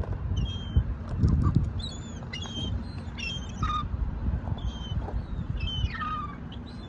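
Seagulls calling: a string of short, high squawks, a few of them sliding down in pitch, over a low rumble.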